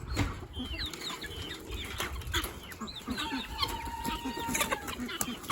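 A flock of chickens clucking and chirping in many short calls, with one long, steady drawn-out call starting about three seconds in.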